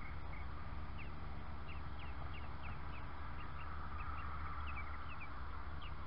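Birds chirping: a run of short, quick chirps, each dropping in pitch, about three a second, over a steady low rumble.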